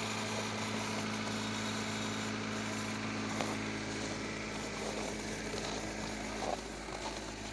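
Car engine idling steadily just after a cold start at −16 °C, left running to warm up.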